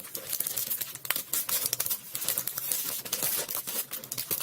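Torn plastic wrapping crinkling and crackling as it is handled, in quick irregular rustles.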